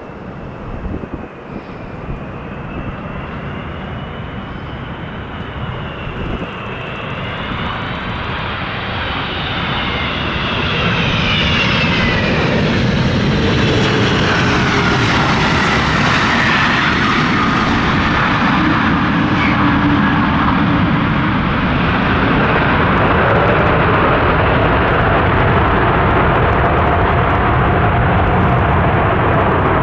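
Jet airliner engines passing close, a whine rising in pitch and then falling as the aircraft goes by, the noise building about a third of the way in and staying loud and steady after. Wind buffets the microphone at the start.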